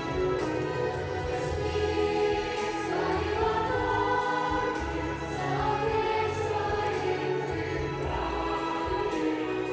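A choir singing with instrumental accompaniment, long held notes with some sliding changes of pitch.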